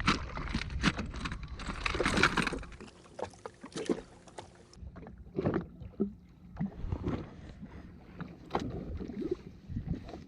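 Irregular knocks and clicks with some water splashing against a jet ski's hull, busier for the first couple of seconds and then sparser.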